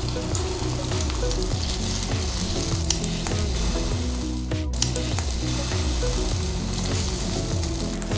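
Egg-battered king oyster mushroom slices sizzling steadily in oil on a hot electric griddle, with a few faint clicks as they are laid down and moved.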